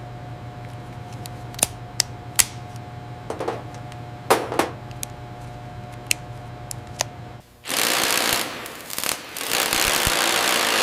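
Steady machine hum with scattered sharp metallic clicks and knocks, then two long, loud hissing blasts near the end, like a spray or air blast.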